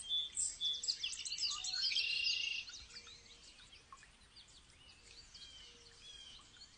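Songbirds singing: a loud, dense run of rapid high chirps and trills for the first two and a half seconds, then quieter scattered calls.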